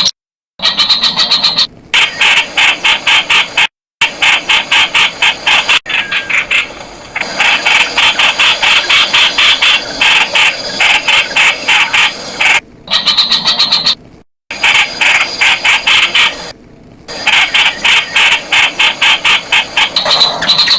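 Streak-eared bulbul calling: rapid runs of short, sharp repeated notes, several a second, broken now and then by sudden dead-silent gaps.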